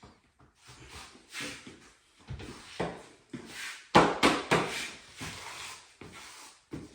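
Plastic uncoupling membrane for a heated floor being handled and laid down: irregular scrapes, rustles and knocks, the loudest about four seconds in.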